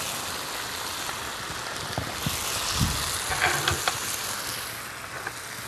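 Food frying in a hot skillet, a steady sizzle, with a few light clicks and clinks of a plate and utensils between about two and four seconds in.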